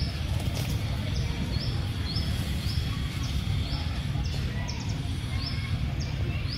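A bird repeating a short high chirp about twice a second, over a steady low rumble.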